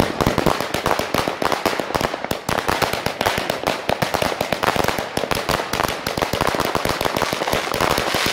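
Fireworks and firecrackers going off in a dense, continuous barrage of sharp bangs and crackles, many per second, without a break.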